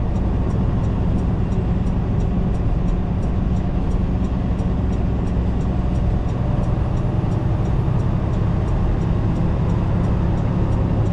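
Semi-truck cab interior on the road: a steady low drone of the engine and road noise, with a faint, regular ticking running through it.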